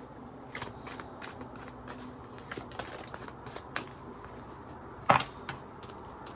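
Tarot cards being shuffled and handled: a run of short, papery flicks and clicks, with one louder card snap about five seconds in.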